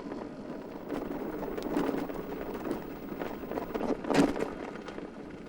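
Small electric motorcycle riding slowly over a rough surface: tyre noise with irregular knocks and rattles, the loudest knock about four seconds in.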